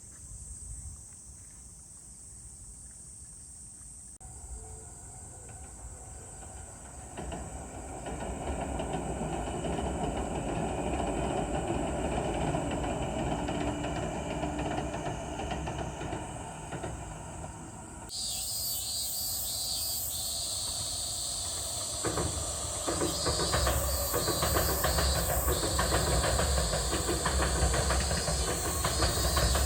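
Electric commuter train of the Tobu Urban Park Line approaching and crossing a railway bridge: a low rumble builds over the first part, then about two-thirds of the way in it turns suddenly into a louder clatter of wheels over the bridge with a hiss, growing louder toward the end.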